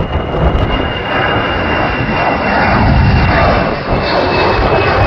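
Airbus A319 jet airliner at takeoff power climbing away, a loud roar with a steady high engine whine, slowly getting louder. Heavy wind buffeting rumbles on the microphone.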